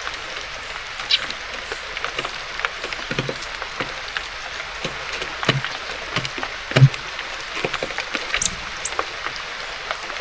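Steady rain hiss with irregular sharp taps and knocks of small birds pecking seeds and landing on a bird feeder, the loudest thump about seven seconds in, and a couple of brief high chirps near the end.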